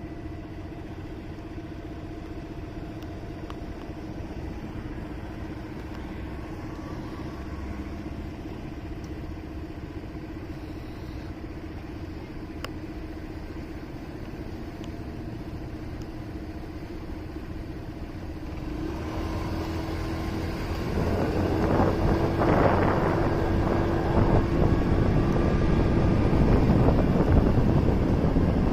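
Motorcycle engine idling with a steady hum. About two-thirds of the way in it revs up and pulls away, getting louder, with rushing wind on the microphone as it gathers speed.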